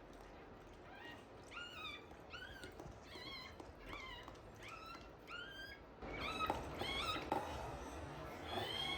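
Newborn Shiba Inu puppies crying in short, high squeaking calls that rise and fall in pitch, about two a second, growing louder from about six seconds in, with a few soft knocks.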